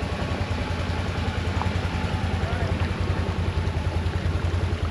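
Off-road vehicle engine running at low revs with a steady low throb, crawling slowly over rough ground.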